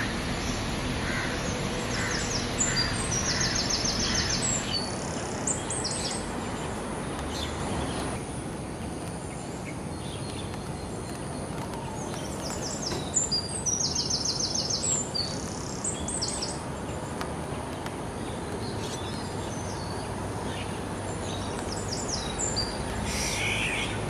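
Wild birds calling over a steady outdoor background hiss. A short call repeats about twice a second and stops about four seconds in. Rapid high trills come twice, once a few seconds in and again about halfway through.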